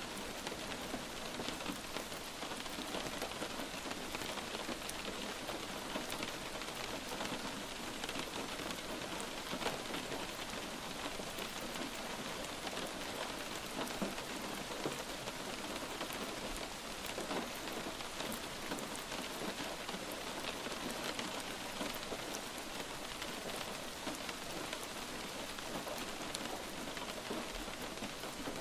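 Steady light rain falling on a surface, an even hiss with many small individual drops pattering through it.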